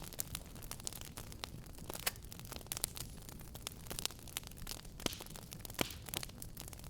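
Wood fire burning in a fireplace: irregular sharp crackles and pops over a low steady rumble of flame, with louder pops about five and six seconds in.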